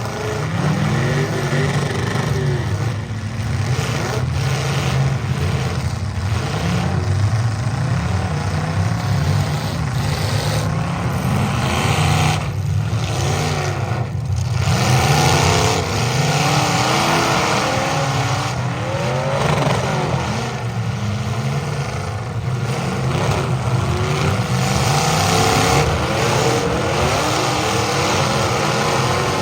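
Several demolition derby cars' engines revving at once, their pitches rising and falling over one another in a continuous din.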